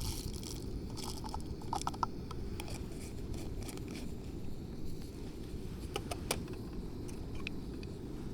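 Coffee gear being handled: scattered light clicks, clinks and scrapes, with a few sharper clicks about six seconds in, over a steady low rumble of wind or surf.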